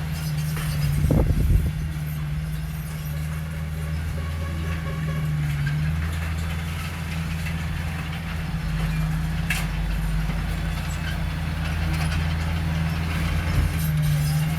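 Heavy diesel engine of earthmoving machinery running steadily, with a brief louder surge about a second in.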